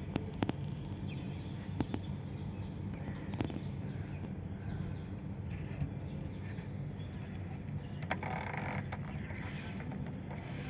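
Cockatiel giving faint, thin chirps with scattered sharp clicks over a steady low hum. About eight seconds in, there is a brief rustling burst.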